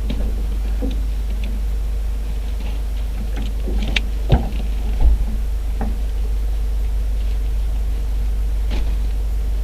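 A steady low rumble with scattered light clicks and knocks; two sharper knocks come about four and five seconds in.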